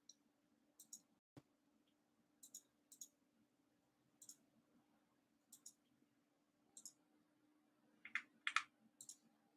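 Faint computer mouse clicks, many in quick pairs, every second or so over a faint steady hum, with two louder clicks near the end.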